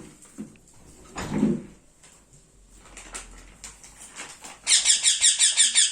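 Baby ringneck parrot squeaking begging calls while being fed. Soft clicks and a short call come first, then near the end a loud, rapid run of squeaks at about ten a second.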